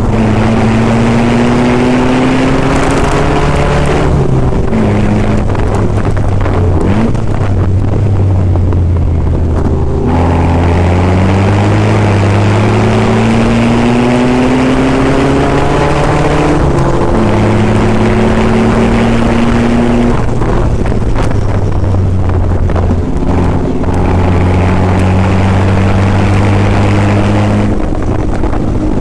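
Austin-Healey 100's four-cylinder engine under racing load, heard from the open cockpit with wind rushing past. Its pitch climbs under acceleration and falls back several times.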